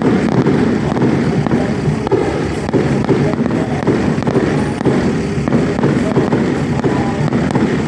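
Fireworks display: a dense, continuous run of crackles and pops at a steady loudness.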